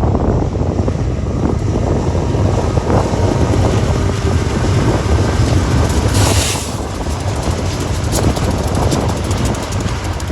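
Strong wind buffeting the microphone in uneven low rumbling gusts, with a brief hiss about six seconds in.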